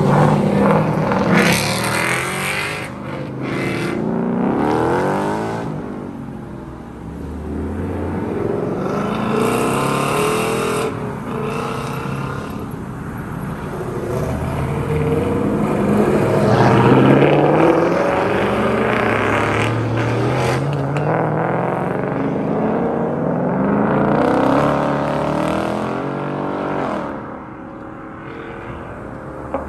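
Several Ford Mustangs accelerating away one after another. The engine pitch rises in repeated sweeps as each car pulls off and passes.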